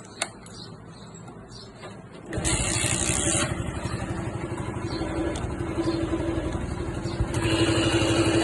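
A few faint clicks, then a Honda CD 70's single-cylinder four-stroke engine starts about two seconds in and runs with an even, pulsing beat. It gets a little louder near the end, where a steady higher whine joins it. The noise comes from a worn 6000-size clutch bearing.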